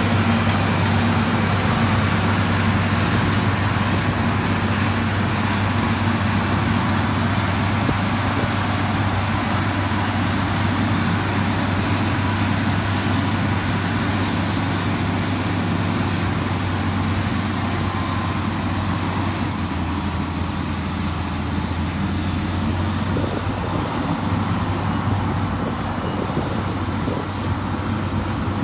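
Diesel engine of heavy road-construction machinery running steadily at a constant pitch, easing slightly in loudness toward the end.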